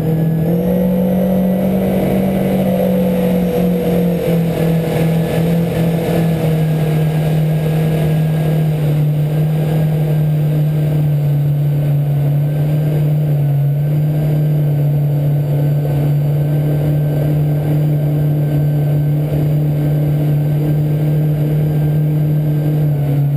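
Yamaha VX110 four-stroke engine in a fishing jetski, running steadily at cruising speed of about 4,500 to 5,000 RPM with the trim set down. Its pitch eases down slightly in the first few seconds, then holds level.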